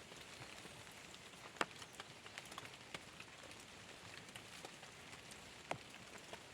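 Light rain falling, with scattered drops tapping on a surface and a couple of louder drips, about one and a half seconds in and again near the end.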